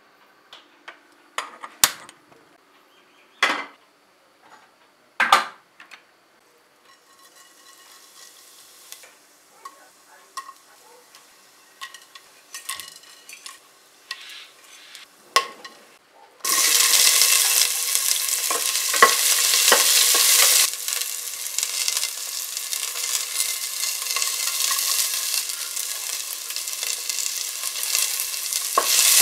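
A few sharp taps, then whole spices crackling softly in hot oil in a steel pressure cooker. About sixteen seconds in a loud sizzle starts suddenly as chopped onions, garlic and green chillies hit the oil, and it goes on frying steadily with small crackles.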